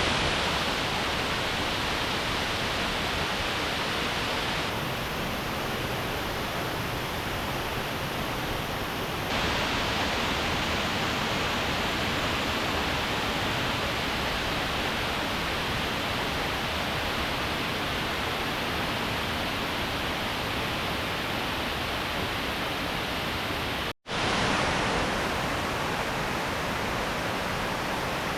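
Steady rushing of a waterfall, an even wash of falling-water noise without distinct events. It briefly cuts out once about three-quarters of the way through, then resumes unchanged.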